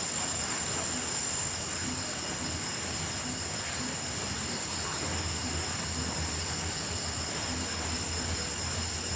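Crickets and grasshoppers singing in a steady, unbroken high-pitched chorus.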